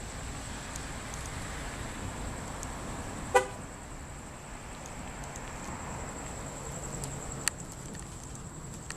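A short single car horn toot about three seconds in, the loudest sound, over steady background noise with a constant high thin tone. A sharp click comes about seven and a half seconds in.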